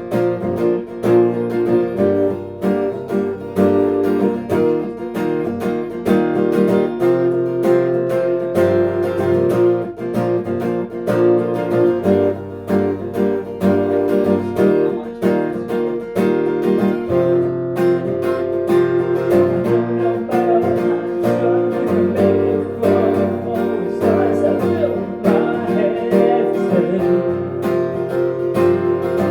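Acoustic guitar strummed steadily in a live song performance.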